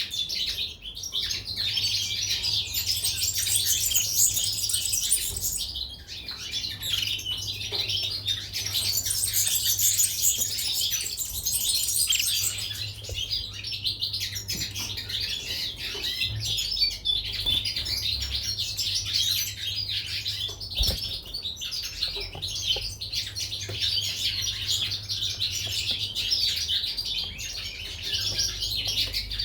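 Caged European goldfinches and canaries chirping and twittering continuously in a dense, high-pitched chorus, with occasional wing flutters.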